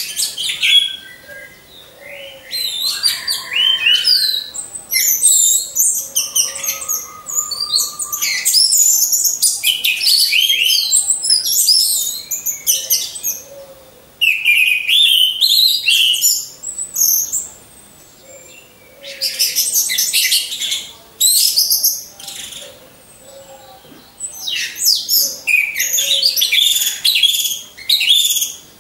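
Orange-headed thrush song: loud, fast runs of high, varied whistled and chattering notes in bursts of a few seconds, broken by short pauses.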